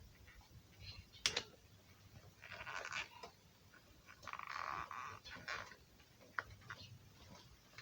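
Hand tools working on bicycle parts: scattered metal clicks and knocks, with two short stretches of scraping or ratcheting, about two and a half and four and a half seconds in.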